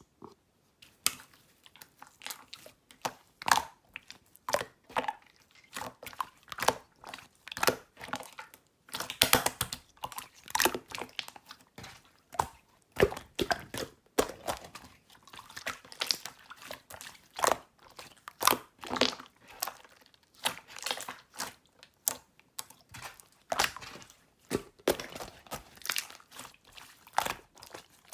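Marbled slime being played with by hand, giving irregular squishy clicks and air pops, roughly one or two a second.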